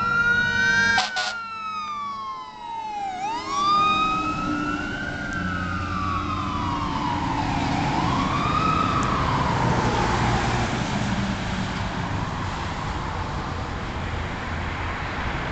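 Fire engine's wail siren sweeping slowly up and down, with a short burst about a second in, then dying away after about ten seconds, leaving the steady rumble of the engine and road noise.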